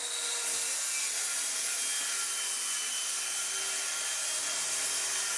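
Circular saw cutting through engineered wood flooring, its blade set to the flooring's depth so it cuts the boards without reaching the subfloor; a steady, high-pitched cutting noise.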